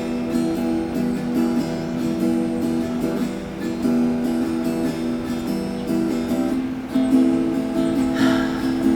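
Intro music: strummed acoustic guitar playing chords in a steady rhythm.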